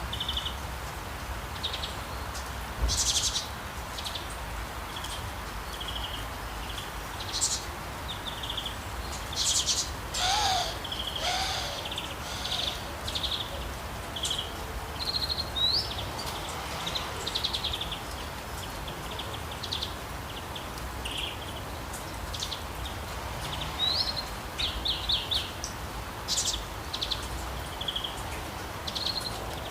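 Wild birds chirping and calling, short high chirps and trills every second or so from several birds, over a steady background hiss. A lower, sliding call sounds twice about ten and eleven seconds in.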